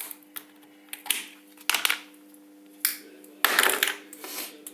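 Electric arcing from a homemade microwave-oven-transformer welder: short, irregular crackling bursts as the lead touches and leaves the metal, the longest and loudest about three and a half seconds in, over a steady transformer hum.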